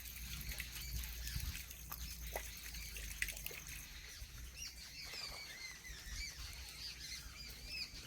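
Small birds chirping in the background: many short, quick calls, busier in the second half, with a few faint clicks.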